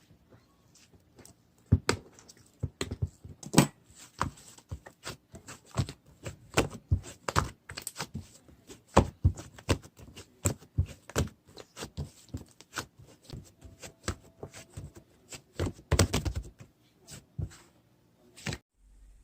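Slime being squished and poked by hand, making irregular wet clicks and pops, some much louder than others. The sound stops just before the end.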